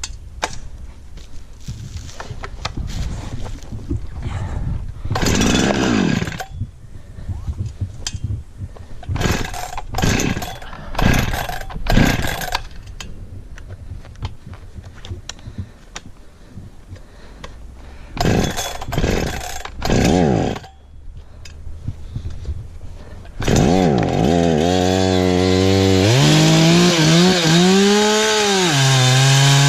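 Perla Barb 84cc two-stroke chainsaw idling, blipped up in short revs several times. About three-quarters of the way through it goes to full throttle and holds there, the engine note dipping and recovering as the chain bites into the wood.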